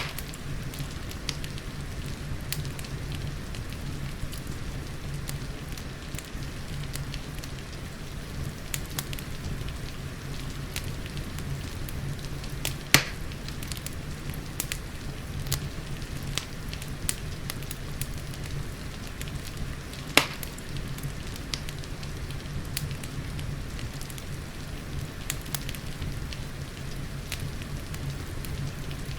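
Fireplace fire crackling with scattered small snaps and two louder pops, one about a third of the way in and one about two-thirds through, over a steady hiss of rain and a low, even rumble.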